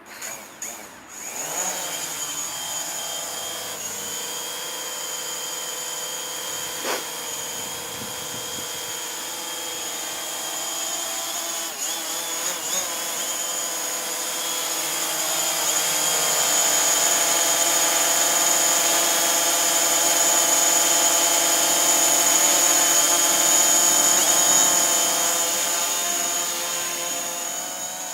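DJI Mavic Pro drone fitted with low-noise propellers: the motors start up with a few quick surges, then run with a steady high-pitched whine. It grows louder about halfway through and eases slightly near the end.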